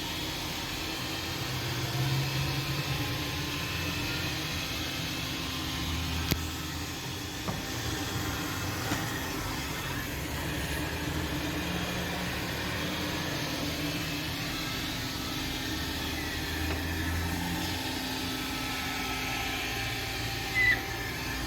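Kärcher WV 1 cordless window vacuum running with a steady low hum as it sucks dirty water off the glass, with a single click about six seconds in.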